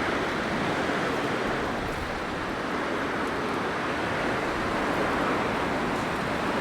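Blizzard wind blowing, a steady rushing noise that swells and eases gently.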